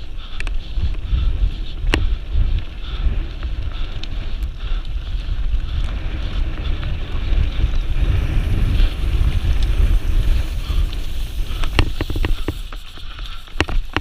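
Wind buffeting the microphone in a loud, steady rumble, with a few sharp knocks, one about two seconds in and a cluster near the end.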